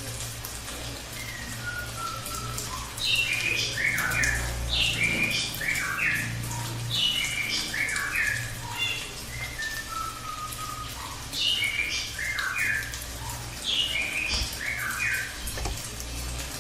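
Cililin bird singing its long rolling song: repeated cascades of short, quick notes that step down in pitch, with a few slower, lower whistles falling in between. A steady low hum runs underneath.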